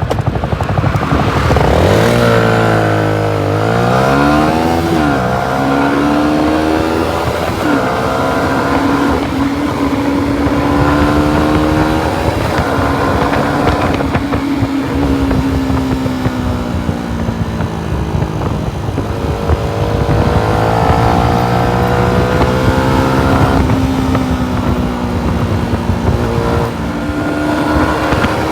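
Yamaha MT-125's single-cylinder four-stroke engine under way: the revs climb steeply and fall back a few seconds in, then the engine holds a fairly steady pitch that rises and sags a little as the throttle changes.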